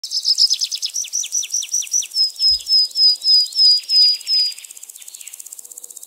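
A bird calling in a rapid series of short, high, falling notes, about five a second at first, then slower and more drawn out, fading out at about four and a half seconds. Behind it, a fine, steady, high insect-like buzzing.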